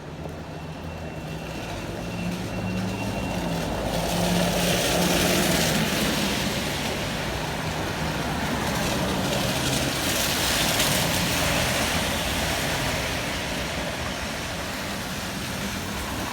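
A motor vehicle's engine running close by, with tyre and road noise on a wet street swelling about four seconds in and staying loud.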